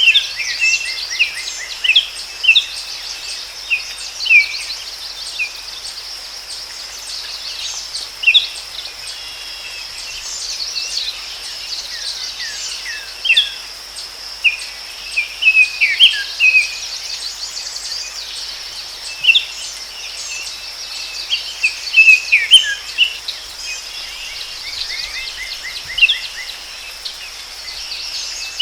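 Forest ambience: many birds chirping and calling in short, repeated notes over a steady, high-pitched insect drone.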